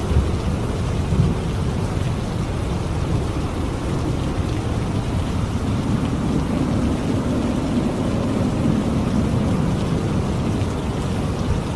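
Thunderstorm: steady heavy rain with low rolling thunder rumbling underneath, swelling for a few seconds past the middle.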